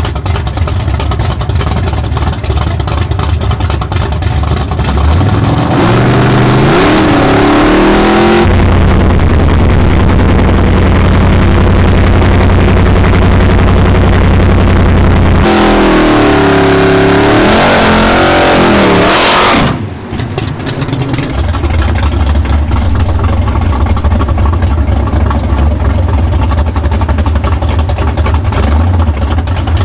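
Loud car engine revving, the pitch climbing and falling twice with a steady high-rev hold in between, then settling into a rough, steady idle.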